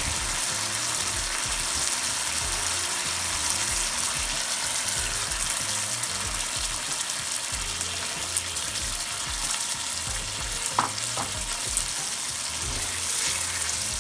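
Chicken pieces sizzling steadily in hot oil and spices in a pan, with a brief clink about eleven seconds in.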